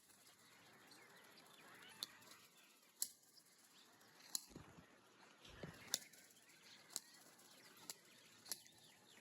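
Faint flapping of pigeons' wings: short sharp claps about once a second over a low hiss.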